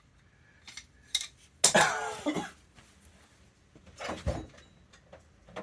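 A steel pin being worked into a tight hole in a welded bucket hanger: light metal clinks, then a loud scrape with a bending squeal about two seconds in, and another knock near four seconds.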